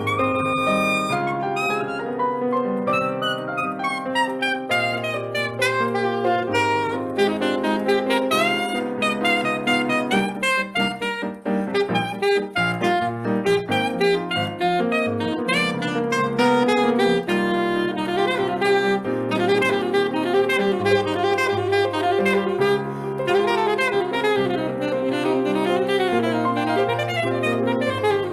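Live Brazilian jazz with saxophone playing fast melodic runs over piano and a bass line.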